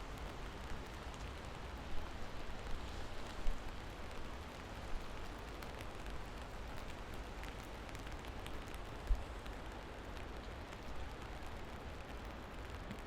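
Steady rain falling, with a few louder drops standing out and a low rumble underneath.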